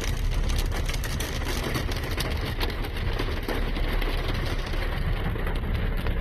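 Inside a car driving through a storm: steady low road and engine rumble, with a constant patter of many small ticks from rain and hail striking the car's body and windows.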